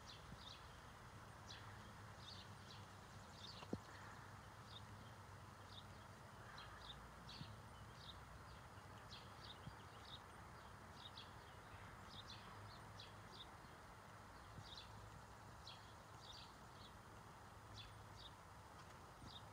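Faint outdoor quiet with a small bird chirping over and over, short high chirps in twos and threes about every half second to a second, over a low steady hum.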